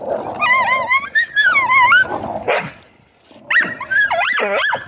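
A canine giving high, wavering whining yelps in two bouts, the second swooping sharply down and up in pitch.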